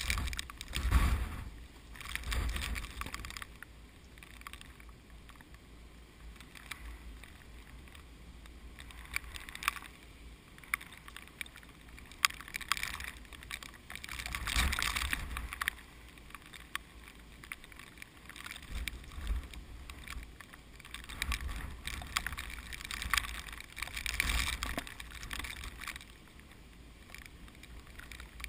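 Strong typhoon wind blowing in gusts, buffeting the microphone with a low rumble and rushing through the rice plants, swelling and easing several times.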